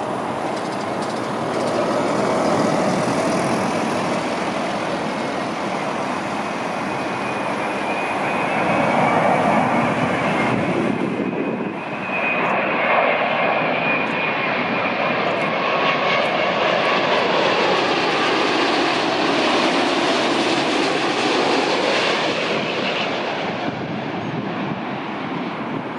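Jet engines of a heavy airliner on landing approach passing close by: a continuous roar with a high whine in it. The sound dips briefly about halfway through, then builds again.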